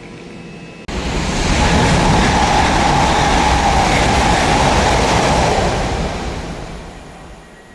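A train passing through the station: a loud rush of wheels on rail that starts suddenly about a second in, holds for several seconds and fades away near the end.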